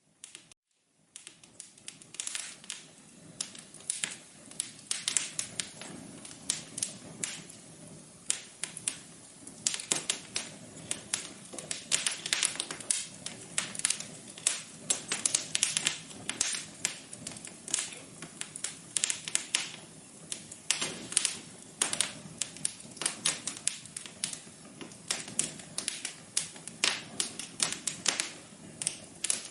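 Wood fire crackling in a fireplace: irregular pops and snaps over a low hiss. It starts about a second in, after a brief silence.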